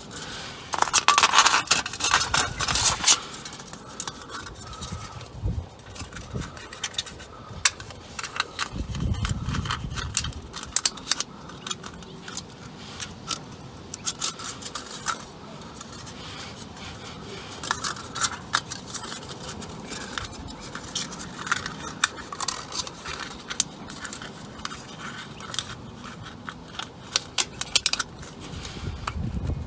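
Thin aluminium from a soda can being cut and handled: repeated sharp snips and crinkling, loudest about one to three seconds in.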